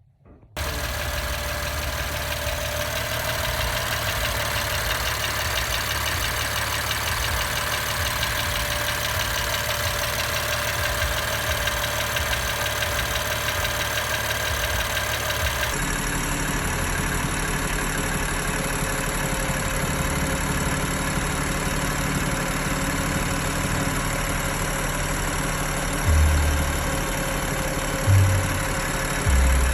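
BMW S55 twin-turbo straight-six idling steadily, the engine whose ticking the owner traced to the exhaust camshaft. The sound changes abruptly about halfway through, and a few short low thumps come near the end.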